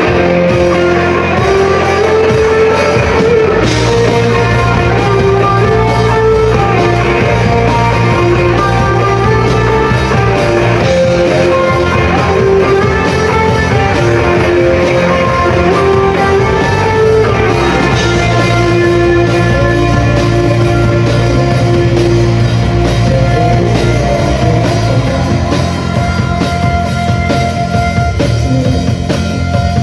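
A rock band playing live, with guitar and drum kit, loud and continuous.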